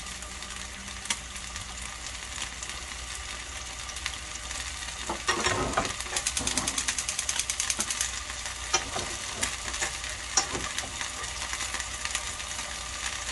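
Beef steak and vegetables sizzling in a hot grill pan. A run of rapid crackling and popping comes about five seconds in and lasts a few seconds, with single pops after it.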